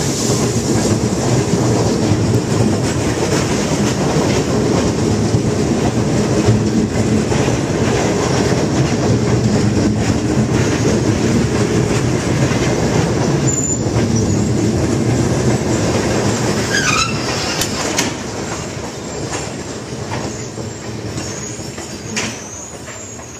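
A steam-hauled passenger train rolling by, a steady heavy rumble of carriages on the rails with brief high wheel squeals about halfway through and again near the end. The sound fades over the last few seconds as the train moves away.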